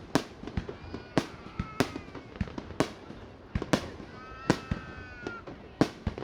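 Aerial fireworks bursting in quick succession: a dozen or so sharp bangs, about one every half second, over a steady background rumble.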